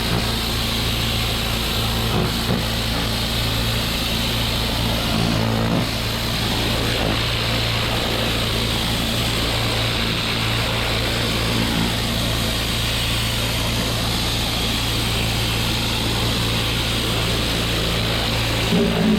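Pressure washer engine running steadily, with the even hiss of the water spray.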